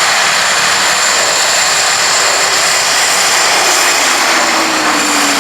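Hawker Hurricane's Rolls-Royce Merlin V12 engine in flight, a steady rushing drone whose engine note slides down in pitch over the last couple of seconds as the aircraft passes.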